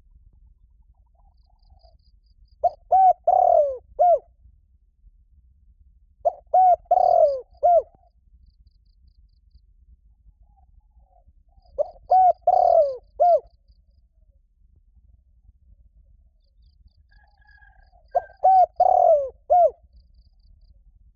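Spotted dove cooing: four calling phrases several seconds apart, each a few short coos around a longer, drawn-out falling note.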